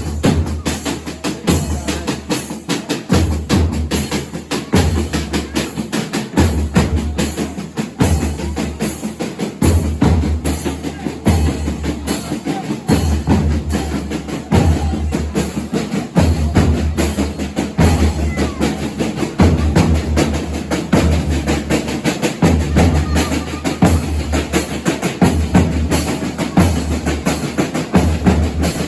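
Folia de Reis band music: drums played in a dense, steady rhythm, with a deep bass beat about every second and a half.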